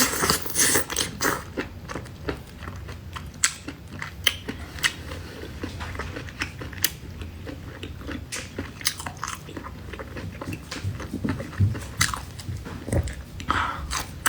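A person eating: irregular bites, crunches and chewing clicks.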